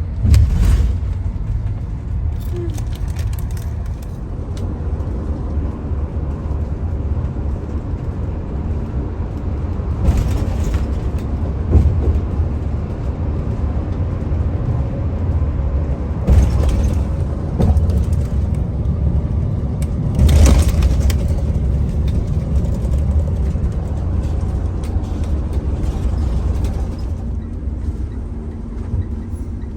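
Steady low road rumble inside a vehicle cruising on the highway, with a few brief whooshes of noise rising over it.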